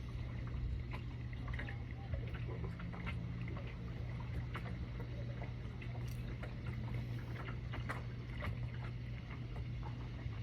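Steady low mechanical hum of a boat, with scattered small clicks and knocks throughout.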